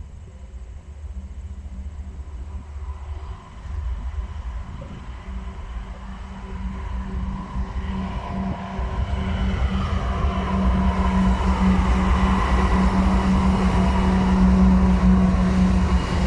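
An approaching train: a diesel locomotive's steady engine drone with wheel noise on the rails, growing steadily louder.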